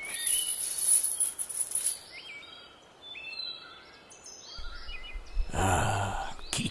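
Short bird chirps over quiet woodland ambience. A thin, steady high tone runs through the first two seconds. A rushing sound with a low rumble swells up near the end.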